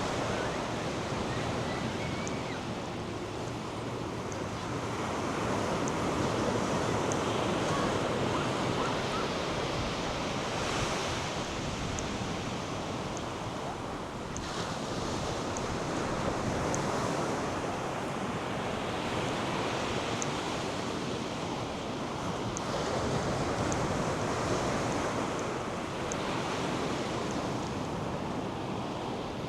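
North Sea surf washing onto a sandy beach, a steady rush that swells and eases every several seconds, with wind buffeting the microphone.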